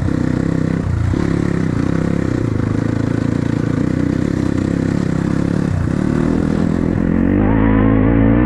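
Dirt-bike engine running as it is ridden, the revs dropping briefly a few times (about a second in and again near six seconds, as at gear changes or easing off the throttle) and climbing again near the end.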